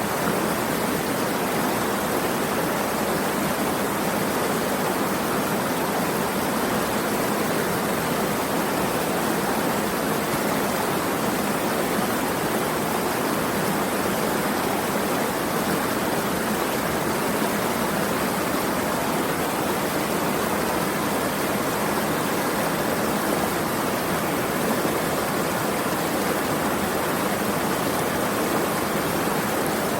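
Steady, unbroken rushing of flowing water, like a stream or small waterfall, with no change in level.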